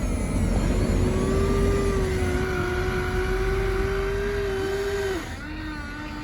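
Electric motors and gearboxes of radio-controlled toy construction machines whining, holding a pitch and then shifting up and down as they work, over a low rumble. The whine steps down and gets quieter a little after five seconds in.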